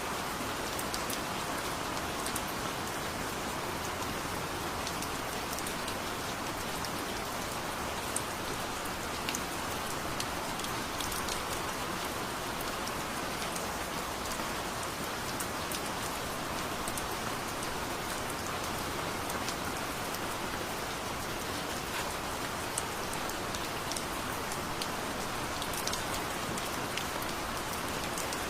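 Steady heavy rain falling, a continuous hiss with many scattered sharper drop ticks.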